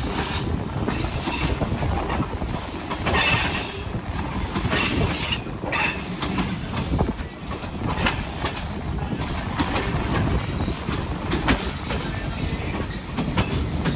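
Passenger train running on the rails: a steady rumble with wheels knocking over the rail joints and several bursts of high wheel squeal.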